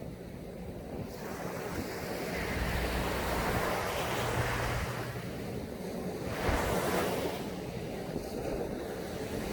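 Sea waves breaking and washing up a sand beach, the surf swelling twice, about two seconds in and again strongest around two-thirds of the way through, with wind rumbling on the microphone.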